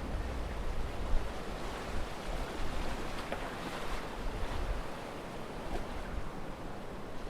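Sea waves breaking and washing up a beach in a steady rush, with a low wind rumble on the microphone that eases off about five seconds in and a brief thump about a second in.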